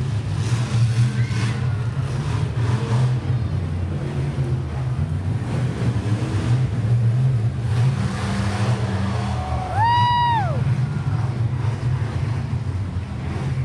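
Monster truck engine running with a steady low rumble. A single short whistle rises, holds and falls about ten seconds in.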